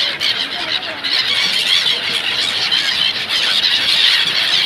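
A large flock of gulls calling all at once, a dense, continuous chorus of shrill squealing cries as the birds crowd in to catch thrown food.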